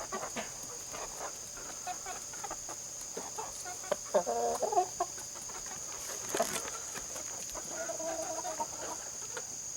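Australorp chickens clucking and calling, with a louder warbling call about four seconds in and a drawn-out call near the end.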